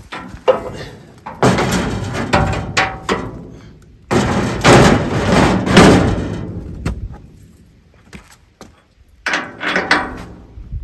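Knocks, bangs and clatter of metal parts being handled on an Allis-Chalmers HD21 dozer during its fluid checks, in three bursts with the loudest about four to six seconds in.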